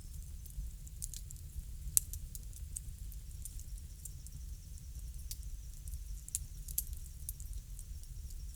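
Bonfire crackling: irregular sharp pops and snaps over a low steady rumble, with one louder pop about two seconds in.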